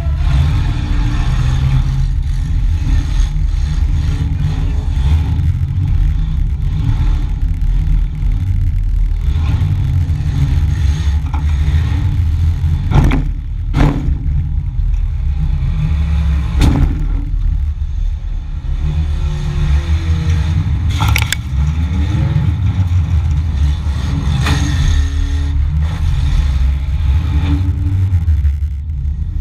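Demolition derby car's engine running loud inside its stripped cabin, revving up and down, with several sharp metal crashes of collisions about halfway through.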